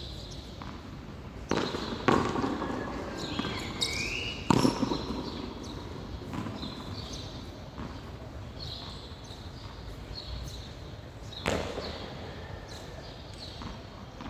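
Hand-frontón rally: the ball smacking against the wall and court, sharp impacts about 1.5, 2, 4.5 and 11.5 seconds in, with lighter knocks between.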